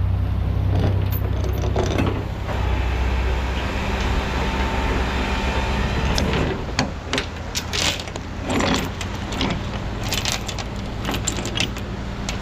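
Rollback tow truck's engine running steadily, with repeated metallic clinks and clanks of chain and rigging hardware being handled, most of them in the second half.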